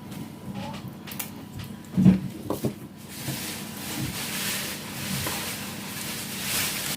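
Metal tool parts handled on a bench, with a few clicks and knocks and one loud thump about two seconds in, then a steady hissing, rasping noise of work on metal for the last few seconds that cuts off suddenly.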